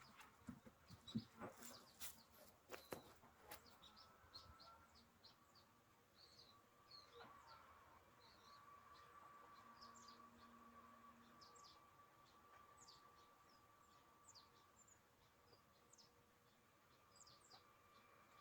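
Near silence with faint small-bird chirps scattered throughout. There are a few knocks in the first few seconds, and a faint steady hum joins about a third of the way in.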